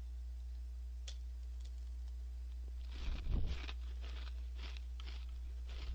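Gorae-bap crackers being crunched in the mouth: a louder bite about three seconds in, then a run of short crisp crunching chews, about three a second. A steady low electrical hum runs underneath.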